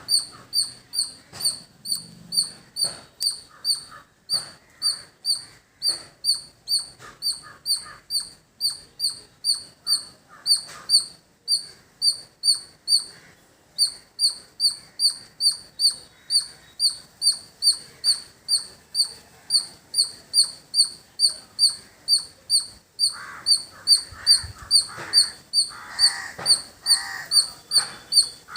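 A squirrel giving its chirping call: a high, sharp chip repeated evenly about three times a second, pausing briefly about halfway through. Lower warbling calls join in near the end.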